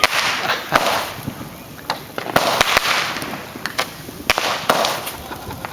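Fireworks going off close by: a rapid, irregular string of sharp bangs and pops, several a second, with crackling hiss between them.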